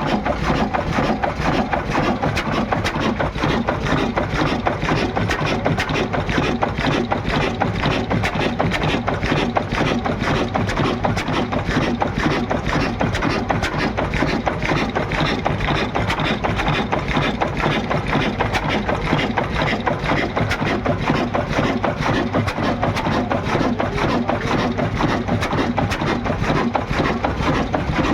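Old Ruston Hornsby diesel engine running steadily with a fast, even knocking clatter.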